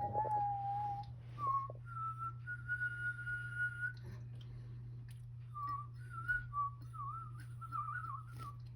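Clear whistled notes: a held note at the start, a higher note held about a second and a half, then short wavering notes near the end. A steady low hum runs underneath.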